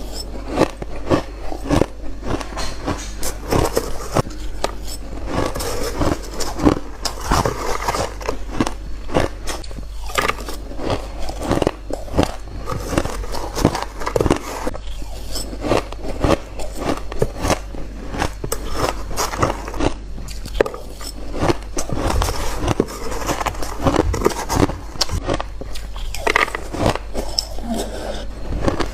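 Close-miked biting into ice, shaved and hard: a dense, continuous run of sharp crunches and crackles, one bite on top of the next.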